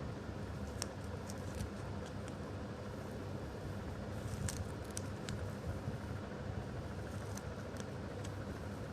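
Sticky foam being pressed and pulled by fingertips close to the microphone, giving scattered faint tacky crackles and clicks, a few each second at most. They sit over a steady low hum.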